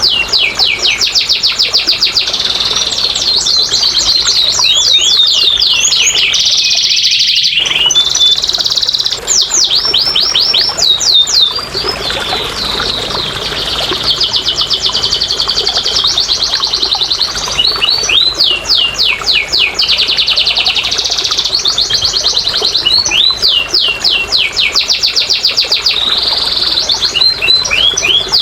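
Domestic canary singing: long phrases of rapid, high-pitched trills, each a fast run of the same repeated note, changing from one trill type to the next with hardly a pause.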